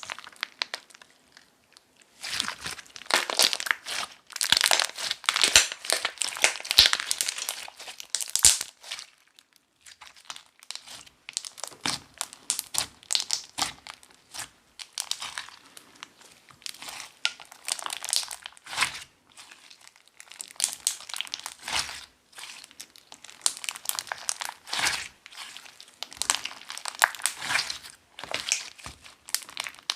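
Hands squishing and stretching a thick, chewy clear slime, with dense crackling and popping. A long loud run of crackles comes in the first third, then shorter bursts every second or two.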